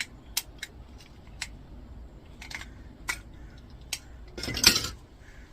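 Small metal parts of an old electricity meter clicking and knocking as they are handled and tugged at, about half a dozen sharp clicks, then a louder scraping clatter about four and a half seconds in.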